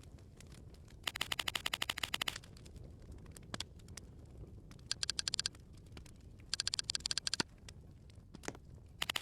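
Four short bursts of rapid, evenly spaced clicking, the longest about a second and a half near the start.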